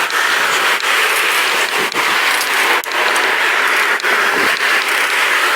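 Steady rushing noise from riding a pedal bike along a road, with several sharp knocks spread through it.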